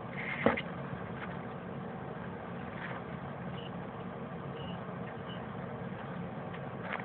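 A few faint, brief high peeps from nestling birds over a steady low hum, with a short call and a sharp knock about half a second in.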